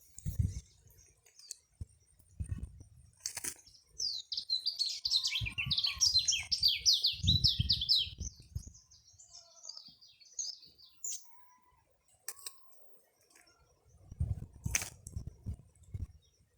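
A songbird singing a fast run of short, high, downward-sliding notes for about six seconds, starting a few seconds in. Dull low thumps come and go around it.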